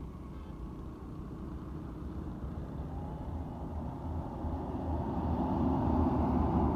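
A truck's engine running, growing steadily louder over the last few seconds as it draws near.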